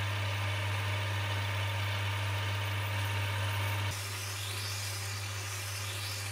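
Electric motor of a paper shredder running steadily with a strong low mains hum and a hiss above it. The sound steps down a little in level about four seconds in.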